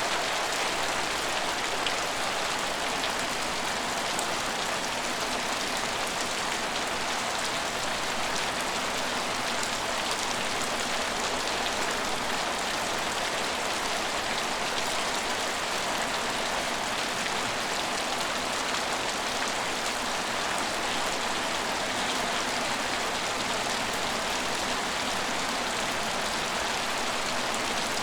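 Steady rain falling and pattering on hard surfaces, an even hiss with faint scattered drop ticks.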